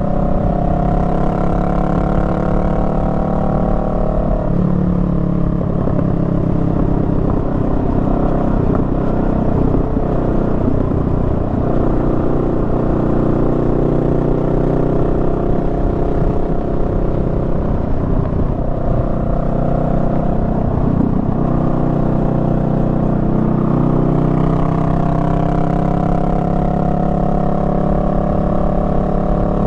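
Honda Rebel 500's parallel-twin engine running under way. Its note drops after a few seconds, stays low through the middle and rises again near the end as engine speed eases off and then picks back up.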